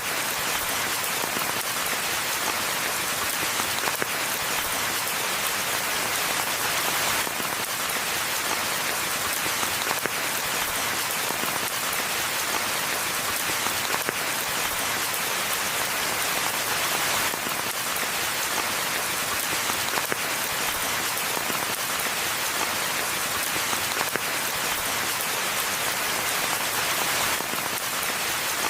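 Steady rainfall: an even hiss of countless drops that holds at one level without lulls.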